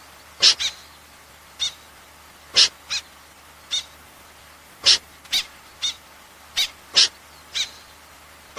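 A bird giving about a dozen short, sharp high-pitched calls at irregular intervals, some in quick pairs, played as a lure call for night net-trapping.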